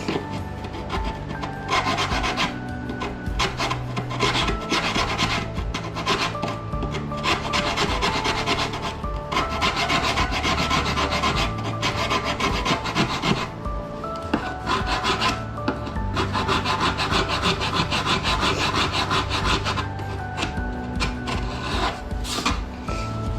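Hand rasp scraping a foam deer mannequin form in several bouts of quick back-and-forth strokes with short pauses, over background music.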